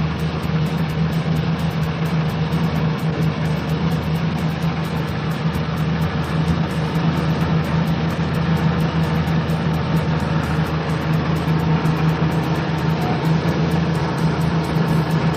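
A vehicle engine running steadily at idle, a constant low hum with no revving.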